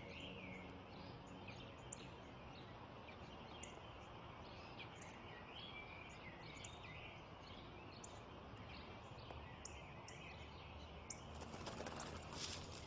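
Small birds chirping here and there over faint, steady outdoor background noise. A brief rustle about a second before the end.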